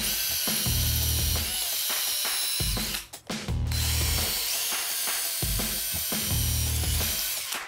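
Cordless drill boring into brick for a wall plug, with a steady motor whine. It stops briefly about three seconds in, then drills again.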